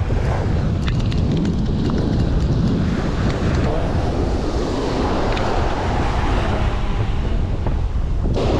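Wind buffeting the microphone in a steady low rumble, over the wash of ocean surf breaking on the beach. A few faint small ticks come about a second in.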